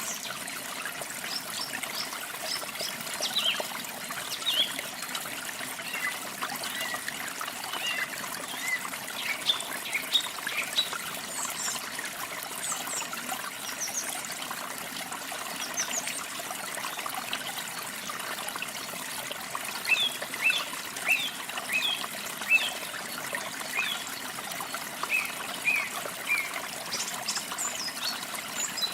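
Small songbirds chirping in short, high calls, in clusters, over a steady trickle of running water.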